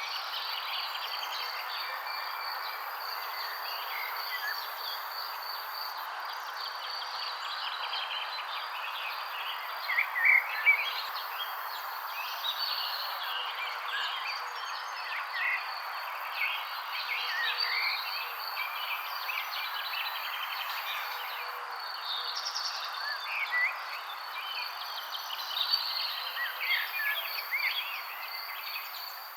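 Many small birds chirping in short, scattered calls over a steady, pulsing insect trill, with an even hiss underneath. A few louder chirps come about ten seconds in.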